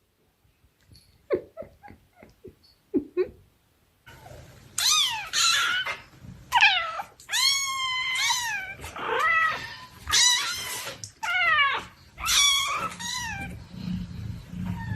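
A domestic cat meowing over and over in drawn-out, wavering calls that slide down in pitch, starting about four seconds in after a few faint clicks.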